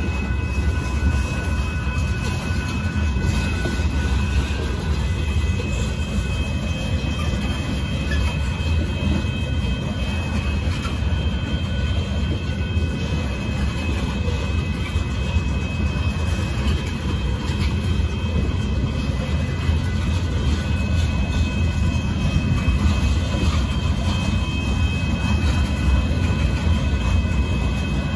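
Loaded gravel hopper cars of a Union Pacific freight train rolling past at a grade crossing: a steady rumble of steel wheels on rail, with a steady high ringing over it.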